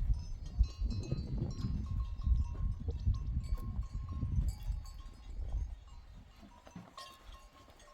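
Livestock with small bells: short, repeated bell tinkles over a low rumble that fades after about five and a half seconds.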